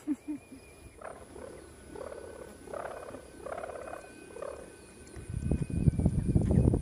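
Strong wind buffeting the microphone in loud, ragged low gusts from about five seconds in, after a few short wavering calls, like a person's voice, in the first half.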